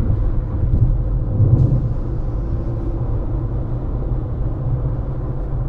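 Car driving at road speed: a steady low rumble of road and tyre noise, swelling slightly about a second in.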